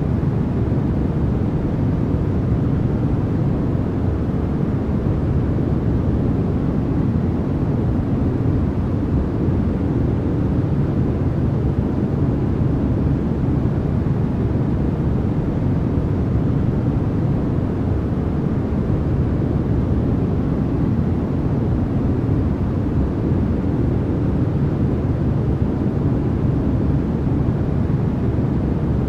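Continuous synthetic noise for sleep, steady and unchanging. It sounds deep and rumbling, with most of its weight in the low end and little hiss up high.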